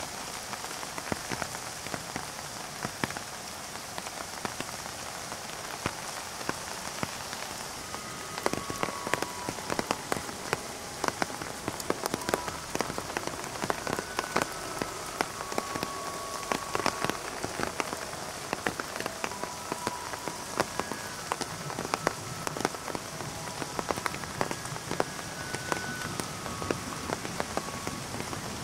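Heavy rain: a steady hiss with many sharp drops tapping on an umbrella held close over the microphone.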